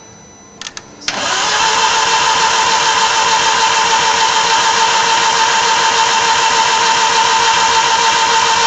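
A few short clicks, then about a second in the starter motor begins cranking a 2.0-litre stroker engine in an Audi TT and keeps it turning at a steady, even whirr without firing. The ignition is off, and the cranking is to prime the engine with oil and build oil pressure, which has not come up yet.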